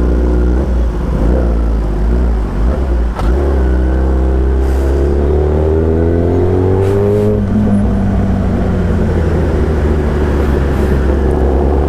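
Motorcycle engine pulling away from a standstill in traffic: a steady low rumble, then from about three seconds in the engine note rises as it accelerates, levelling off about halfway through.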